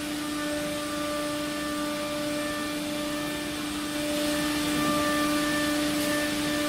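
Steady electric machine hum at one constant pitch with a hissing rush over it, growing louder and hissier about four seconds in.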